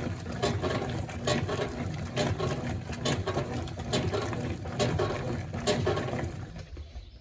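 Consul Facilite 11.5 kg top-loading washing machine agitating a wash load on the lowest water level, the agitator churning and sloshing the water and cloths in irregular splashes over a low rumble. The agitation winds down and stops near the end.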